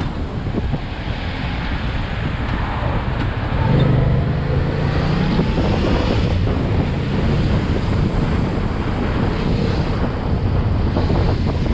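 Wind buffeting a motorcycle rider's camera microphone at road speed, with the motorcycle's engine running underneath and swelling louder about four seconds in.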